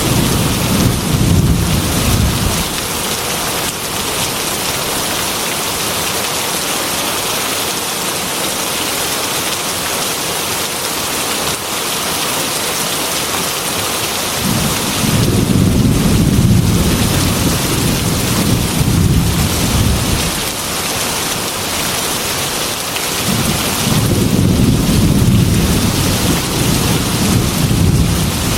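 Heavy rain falling in a steady hiss, with low thunder rolling three times: at the start, again about halfway through, and once more near the end.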